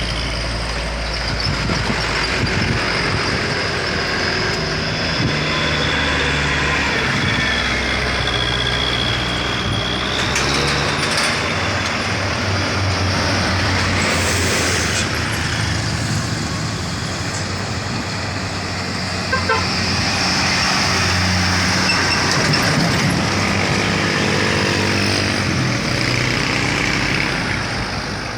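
Heavy vehicle engines running loudly under load as they pass, the low engine note stepping up and down in pitch, over steady road noise.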